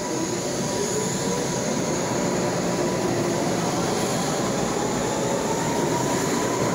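SEPTA Regional Rail electric multiple-unit train pulling out of the station, its traction motors whining in a steadily rising pitch over the rumble of the wheels as it gathers speed.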